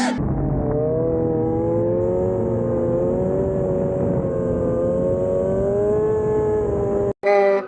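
Sport motorcycle engine running at fairly steady high revs, its pitch sagging slightly and climbing again. It cuts off abruptly near the end, and music comes in.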